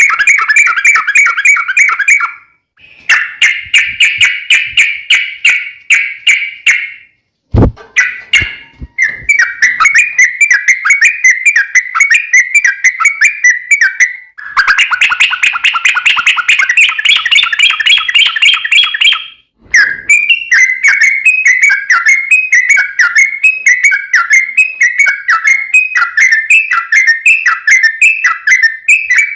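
Yellow-vented bulbul (trucukan) song: long bouts of fast, bubbly, repeated chattering notes, loud, broken by a few short pauses, with a brief click just before the middle.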